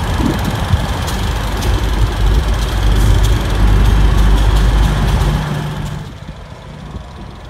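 Loud, steady low rumble of a train close by, with faint clicks. About six seconds in it cuts off abruptly to quieter station sound with a fainter train noise.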